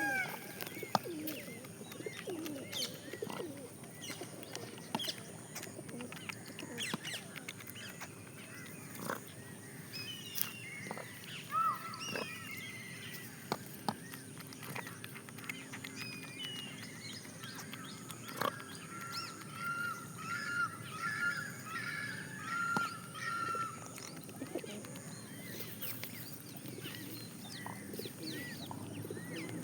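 Small birds chirping with many short, scattered calls, including a quick run of about eight repeated arched notes around twenty seconds in, with scattered sharp taps.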